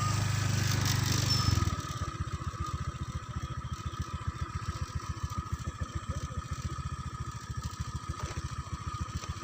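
Small engine running at raised speed, then about one and a half seconds in it drops back to an even, rapidly pulsing idle.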